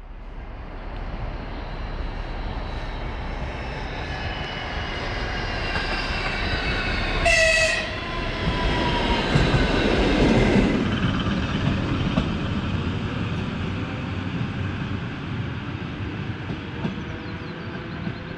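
A train passing, its rumble swelling and then slowly fading, with a short horn blast about seven seconds in.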